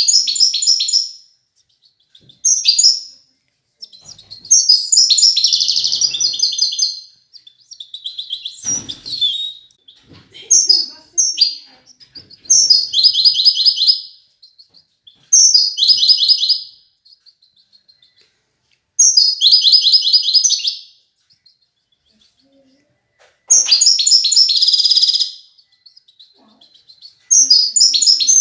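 European goldfinch singing: high, rapid twittering phrases of one to two seconds, repeated about nine times with short pauses between.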